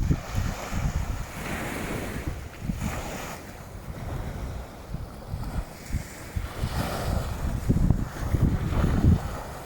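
Wind buffeting the microphone in uneven gusts, over waves washing onto the shore with a hiss that swells and fades.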